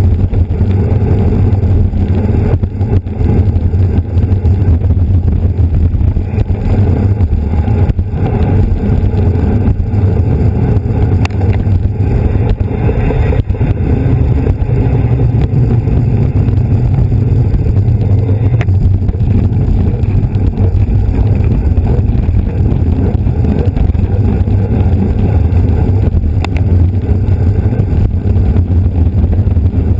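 Loud, steady wind noise rumbling on the microphone of a camera carried on a moving bicycle.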